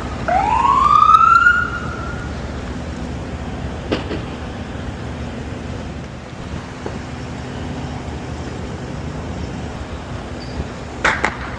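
Emergency vehicle siren giving one short rising whoop, about a second and a half long, over a steady background rumble. Two brief sharp sounds come near the end.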